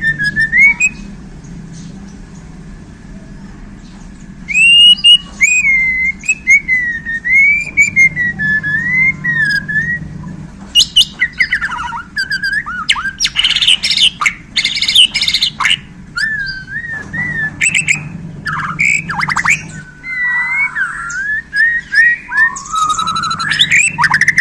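White-rumped shama (Bornean murai batu) singing: a long, varied song of gliding whistled phrases that turns, about halfway through, into a dense run of rapid, mixed notes and harsh calls, typical of a shama's mimicked 'isian'. A steady low hum runs beneath it.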